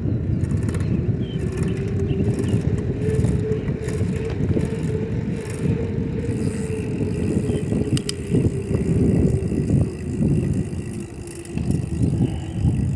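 Bicycle being ridden on pavement, with wind buffeting the microphone over the tyre rolling noise. A faint hum sinks slightly in pitch through the ride.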